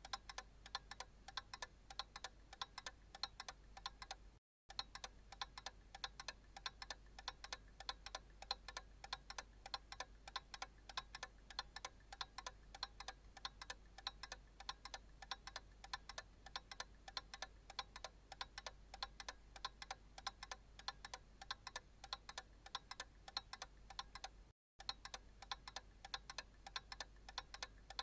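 Analog clock ticking steadily, a regular run of sharp, faint ticks, broken twice by a momentary gap of total silence.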